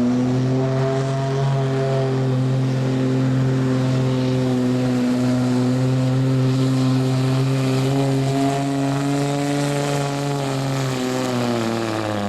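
Street diesel pickup truck engine held at high revs under load as it pulls the sled down the track, a steady drone at one pitch. Near the end the revs fall off as the pull ends.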